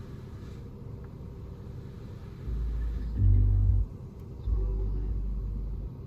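Automatic car wash equipment heard from inside the car during the pre-soak stage: a steady low rumble, with two louder deep rumbles, the first about two and a half seconds in and the second near the end.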